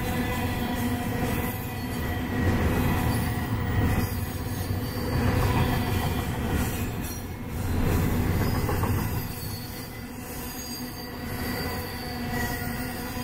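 Double-stack intermodal well cars rolling past on steel rails: a steady rumble of wheels on track with a thin, steady whining tone over it. The rumble swells and eases every couple of seconds as the trucks go by.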